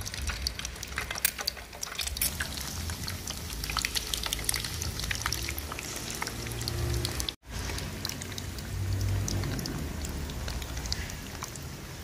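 Halved hard-boiled eggs frying in hot oil in a frying pan: steady sizzling with many small crackling pops as more halves are laid in. The sound cuts out for an instant about seven seconds in.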